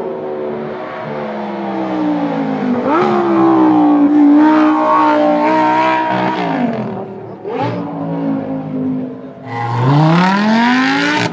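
Lamborghini Gallardo LP570-4's V10 engine through a Larini sports exhaust, driving: the engine note climbs and falls with the revs, drops away briefly, then climbs steeply under hard acceleration near the end.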